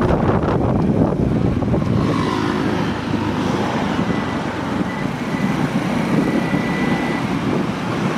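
A vehicle driving along a flooded road, its engine and the water making a steady rushing noise. A faint thin whine runs through the middle.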